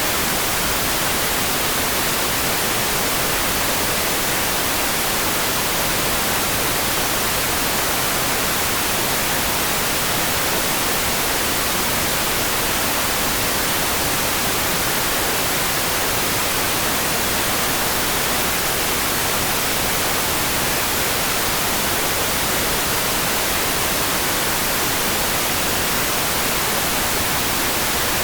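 Steady, even hiss of rain, unbroken and unchanging, with no separate drops, thunder or dripping standing out.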